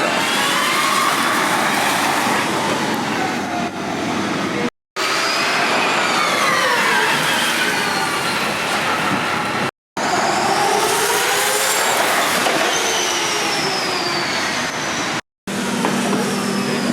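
Formula E electric race cars passing at speed: a high electric whine that falls in pitch as each car goes by, with tyre and road noise. It is broken by three brief silent cuts.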